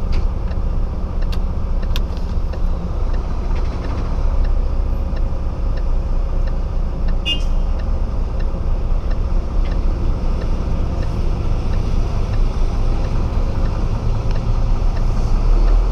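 Steady low engine and road rumble inside the cab of a 26-tonne Renault rigid lorry on the move.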